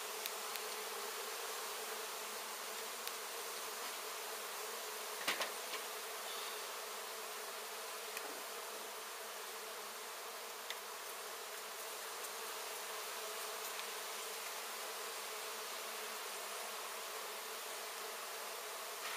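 Steady buzzing of a large honey bee colony during a hive cutout. A couple of brief sharp clicks come about five seconds in.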